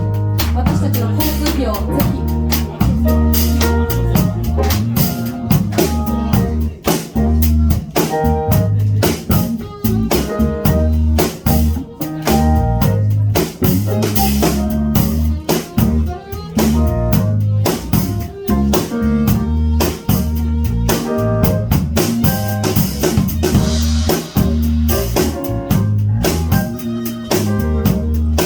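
Live jazz-funk band playing: a drum kit with rimshots and bass drum keeps a steady groove under a heavy bass line and held melodic lead notes.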